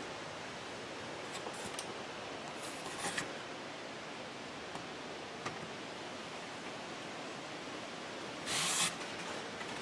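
Steady background hiss with a few faint clicks and taps, and one short, louder scraping rustle near the end, from handling the parts of a disassembled drill grinder motor.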